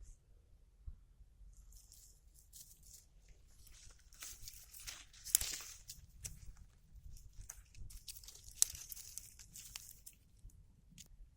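Rustling and crinkling from hands working through plants as strawberries are picked, in uneven bursts with two sharp snaps, one about halfway through and one a few seconds later.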